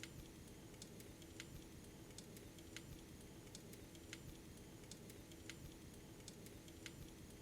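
Wood fire in a fireplace crackling faintly, with irregular sharp pops a second or so apart over a low steady hum.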